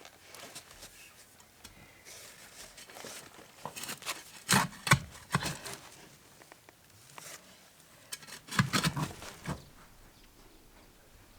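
Rustling handling noise with two clusters of sharp taps and clicks, the loudest about four and a half seconds in and again about eight and a half seconds in.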